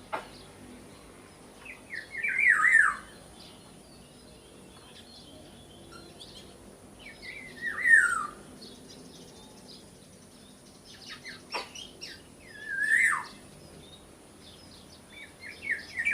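Black-naped oriole (kepodang) giving a short, falling call about every five seconds, four times, with faint higher chirps in between.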